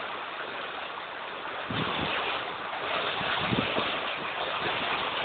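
Steady rushing of storm water and wind, with low buffets of wind on the microphone about two and three and a half seconds in.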